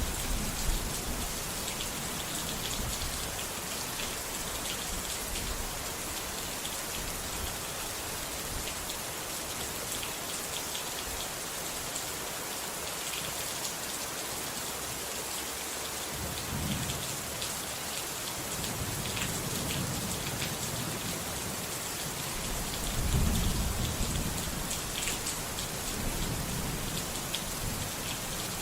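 Steady heavy rain falling on a surface, with low rolls of thunder rumbling in over the second half, the loudest a few seconds before the end.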